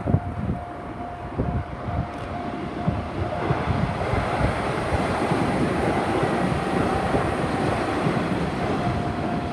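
Sanyo Electric Railway 8000 series electric train passing over a level crossing: wheels clatter over the rail joints, then the running noise thickens into a steady rush from about three and a half seconds in. A level-crossing warning bell rings throughout as a steady high tone.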